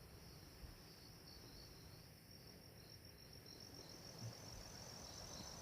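Faint insects chirping in a fast, pulsing high trill, over a low steady background rumble.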